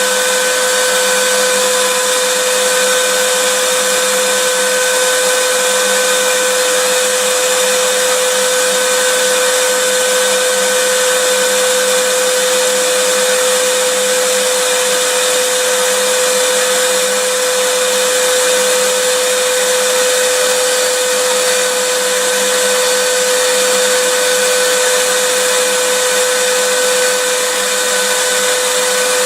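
Vacuum cleaner running steadily: an even rushing of air with a constant motor whine.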